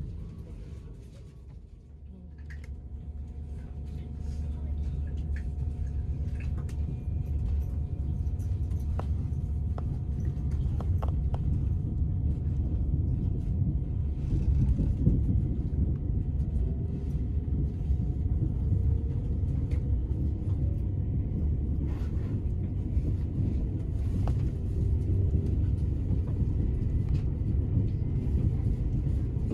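IR4 electric multiple unit pulling away and picking up speed, heard from inside the carriage: a low rumble of wheels and running gear grows over the first few seconds and then holds steady, with a faint steady tone and occasional clicks.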